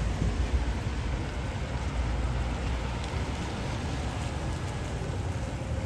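Steady rain falling, with a low rumble underneath it.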